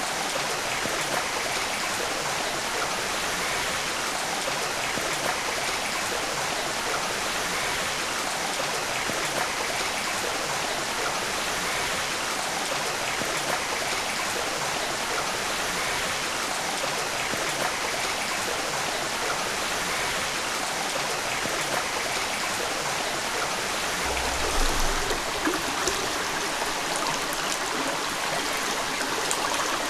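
Steady rushing of running water, like a stream, with a few low bumps about three-quarters of the way through.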